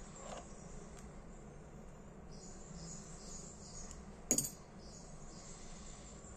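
Faint high chirring over a low background hum, with one sharp click about four seconds in.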